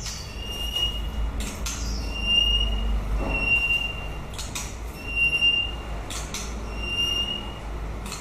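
White-rumped shama giving a series of short, clear whistled notes, repeated about every second, mixed with sharp clicks and quick falling sweeps, over a steady low rumble.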